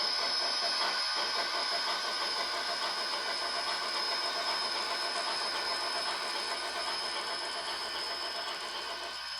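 LokSound V4.0 Select sound decoder in an HO scale three-truck Shay playing fast, continuous steam chuffing with hiss through the model's onboard speaker as the locomotive runs at speed. It gets a little quieter over the second half and cuts back right at the end.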